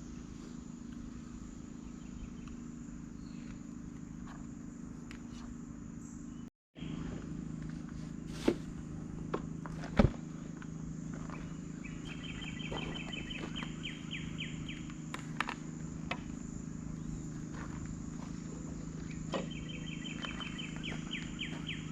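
Outdoor evening ambience: a steady low hum, with an insect's rapid pulsed trill coming in twice, in the second half, and a few light clicks about a third of the way through.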